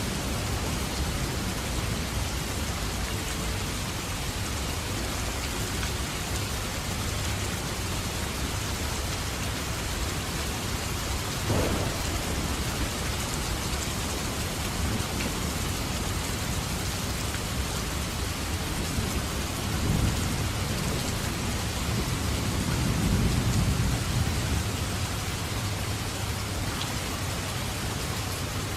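Steady heavy rain falling in a thunderstorm, with thunder: a sharp crack a little before halfway, then low rumbling swells in the last third.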